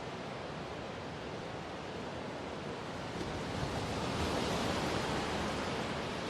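Steady rushing of sea waves and wind, swelling a little midway.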